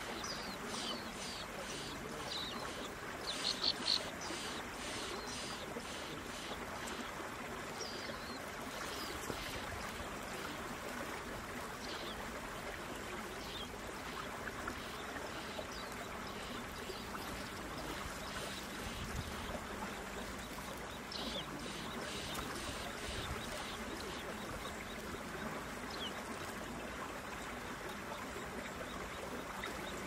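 Short, high bird chirps from the birds at the nest, many scattered through and a quick loud run of them about three to four seconds in, over a steady rushing background noise.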